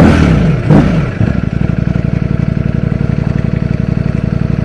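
Ducati Streetfighter V4S's 1103cc V4 engine coming off the throttle, revs falling with one short blip, then settling into a steady, rapid-pulsing idle.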